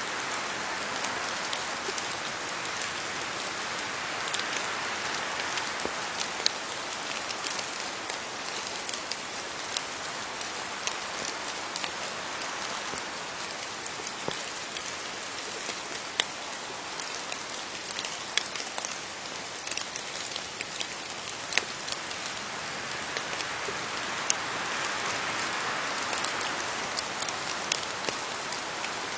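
Steady rain falling on leaves: a continuous hiss with many sharp individual drop ticks scattered throughout.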